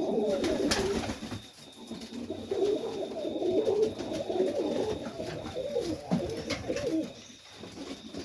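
Several Serbian highflyer pigeons cooing in a loft, their low, wavering coos overlapping almost continuously, with brief lulls about a second and a half in and near the end.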